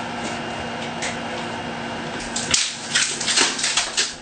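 Shower wall panel being pushed into place against the wall and back panel: a sharp knock about halfway through, then a quick run of short scraping rubs, over a steady low hum.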